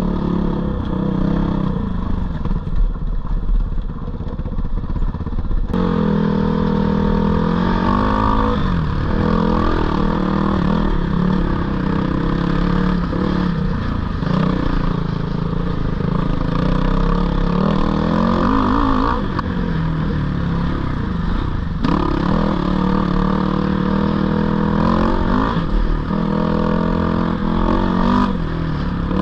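Dirt bike engine running under shifting throttle, its pitch rising and falling again and again as it revs and shifts through gears, with an abrupt change in tone about six seconds in.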